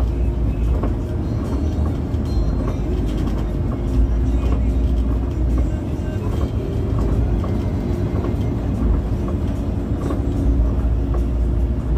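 Steady low engine and road rumble heard inside a moving coach bus, with small rattles, while music plays.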